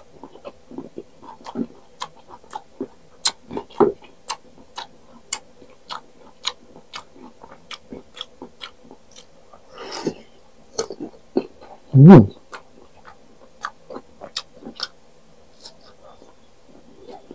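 Crisp, close-up crunching of raw green mango being chewed, sharp crunches coming about twice a second. About ten seconds in there is a breathy rush of air, and about two seconds later a short, loud low vocal sound from the eater.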